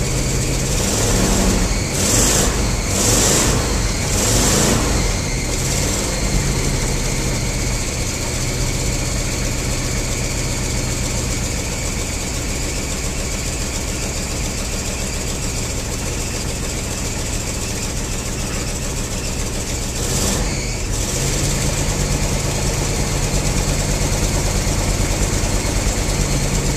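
1974 Ford F250's V8 engine running just after a cold start, revved in several short blips in the first few seconds and once more about twenty seconds in, otherwise idling steadily.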